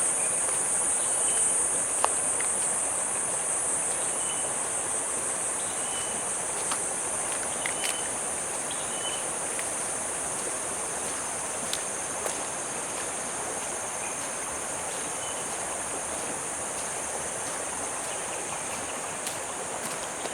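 A steady, high-pitched chorus of insects trilling without a break. Short faint chirps and a few sharp clicks are scattered across it, over an even background hiss.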